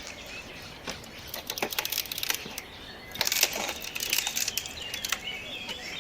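Dry wood and brush being handled: irregular rustling with sharp snaps and clicks, heaviest about a second and a half in and again past the middle. Birds chirp faintly in the background.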